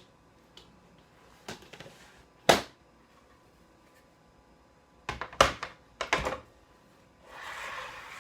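Knocks and clunks of a cordless track saw and its aluminium guide rail being handled: a loud single clunk about two and a half seconds in, a quick cluster of knocks around five to six seconds, then a short scraping rush near the end.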